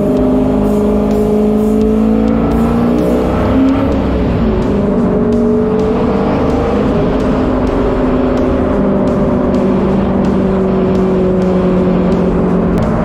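Turbocharged LS V8 of a street-legal stock car running under way. Its pitch rises for a second or two, drops about three and a half seconds in, then holds fairly steady.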